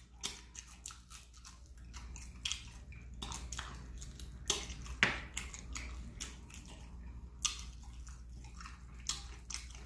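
Close-miked mouth sounds of a man eating fried chicken wings: wet chewing, lip smacking and finger licking, a run of short irregular smacks and clicks, the sharpest about five seconds in.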